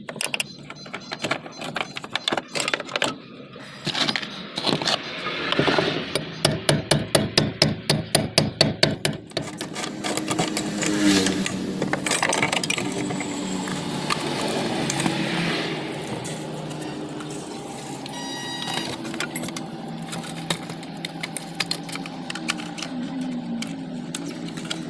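Hand tools working on a car's fuel pump assembly: scattered metal clicks and knocks, with a quick run of sharp knocks, about five a second, about a quarter of the way in.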